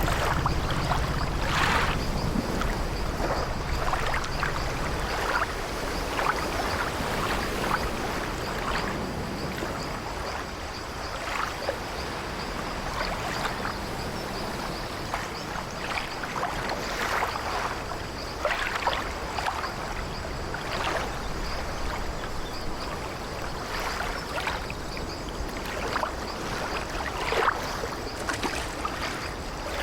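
Sea water sloshing against an old wooden ship: a steady wash with frequent short, irregular splashes. A low rumble fades out over the first few seconds.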